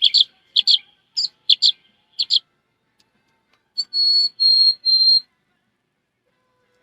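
A person imitating bird calls by mouth: a run of quick high double chirps, one pair about every 0.6 seconds, then after a short pause three steady high whistled notes.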